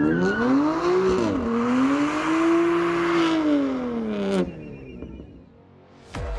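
Car engine revved twice: a quick rev that drops back about a second in, then a longer rev held high for a couple of seconds before falling away. The sound cuts off suddenly about four and a half seconds in.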